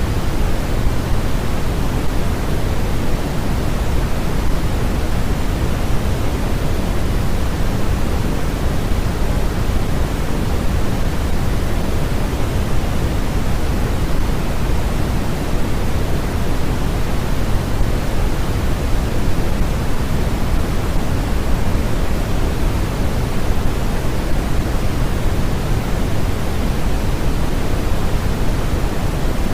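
Steady, unchanging hiss of a generated noise track, its energy weighted toward the low end so it sounds more like pink noise than flat white noise.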